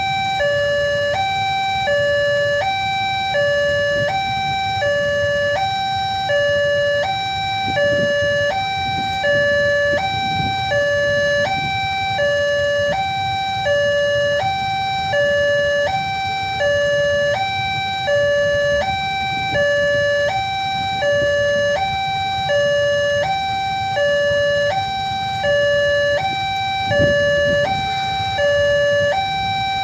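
Railway level-crossing warning alarm sounding continuously, an electronic two-tone signal switching between a lower and a higher note about once a second each pair, meaning the barrier is down and a train is approaching. A low rumble runs underneath.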